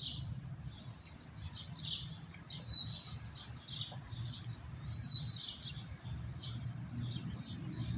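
Wild birds chirping repeatedly, with two clear downward-sliding whistled notes about two and a half and five seconds in, over a steady low background hum.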